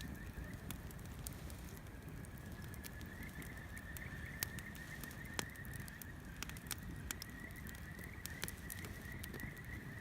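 Wood bonfire burning, crackling with scattered sharp pops over a low rumble of flame; two louder pops come around the middle. A steady, thin, wavering high tone runs underneath.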